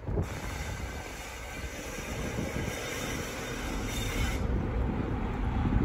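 A train running on the rails, a steady rumble that grows slowly louder, with a high hiss over it that stops abruptly about four seconds in.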